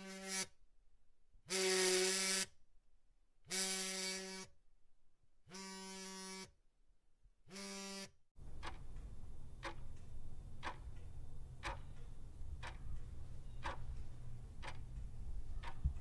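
A buzzer sounds five times, each buzz under a second long and about two seconds apart; the second buzz is the loudest. About eight seconds in it cuts to a low rumble with sharp, regular ticks, about three every two seconds.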